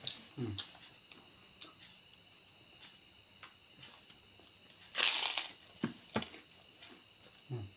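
A person chewing and crunching a mouthful of raw young mango leaves with sambal, with scattered short crunches and one louder, longer crunch about five seconds in. Crickets chirp steadily in the background.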